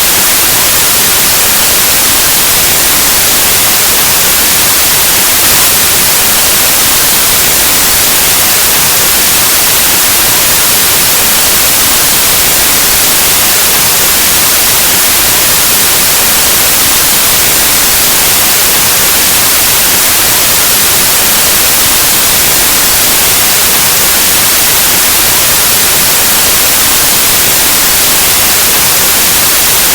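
Steady, loud white noise: an even full-spectrum hiss like analog TV or radio static, unchanging throughout.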